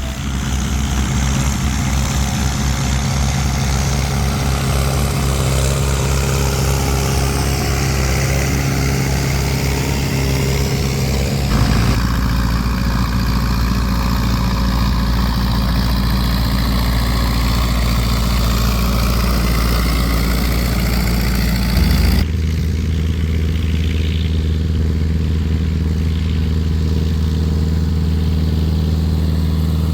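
Old tractor engines running steadily, heard in three stretches with a sudden change in engine sound about 11 seconds in and again about 22 seconds in.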